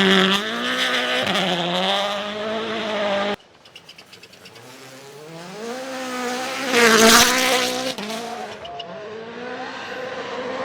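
Rally car engines at full throttle, pitch climbing and dropping through gear changes. The sound cuts off abruptly about a third of the way in. Then another car is heard coming closer, passing loudest about seven seconds in, and its engine note falls away.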